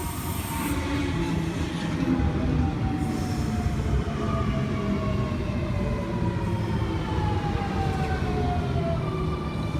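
Sydney Trains Millennium (M-set) electric train pulling into a station platform: a steady rumble of wheels on rail under a whine from the traction motors that falls slowly in pitch as the train brakes. About nine seconds in, the whine gives way to a higher steady tone.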